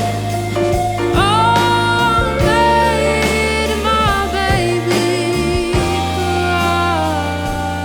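Jazz band playing a slow instrumental passage: a sliding, bending melody line over held bass notes and piano chords.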